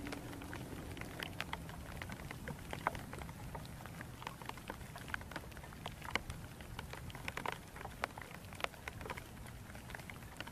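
Heavy rain falling, a steady hiss with many sharp ticks of single drops landing close by.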